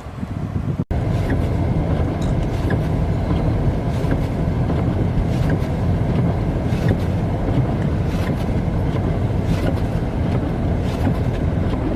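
A vehicle engine running as a loud, steady low rumble, starting abruptly about a second in.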